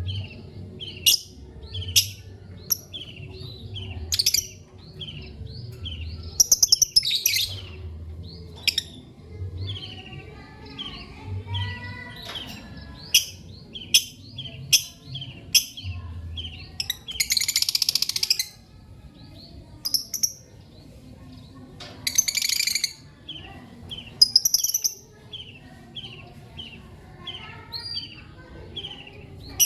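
Lovebirds chirping: a steady run of short, quick chirps, about two a second, broken by a few loud, harsh screeches, the longest about 18 seconds in.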